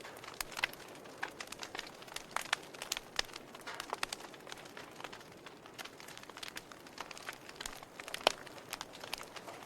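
Wood fire crackling in a fireplace: irregular sharp pops and snaps from the burning logs over a soft steady hiss, with one louder pop near the end.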